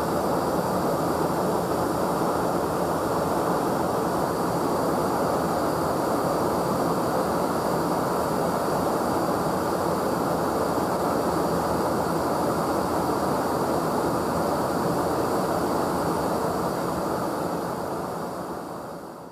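Steady in-flight rush of a KC-135 Stratotanker jet, engine and airflow noise, which fades out over the last two seconds.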